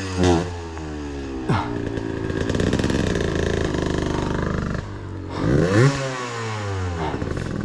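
Two-stroke enduro dirt bike engine pulling at low revs, short-shifted and lugging on its torque, with a quick rise and fall in revs right at the start and another about five and a half seconds in.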